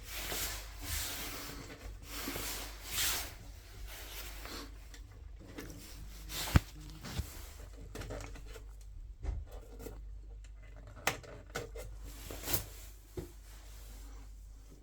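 Quiet handling noises with a few scattered sharp clicks, the loudest about six and a half seconds in and a few more near the end.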